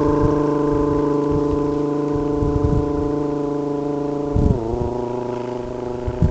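A person's long, steady, low voiced call, used as an audio association so that habituated wild meerkats know where the observer is; it is not an imitation of a meerkat call. The pitch steps down once about four and a half seconds in.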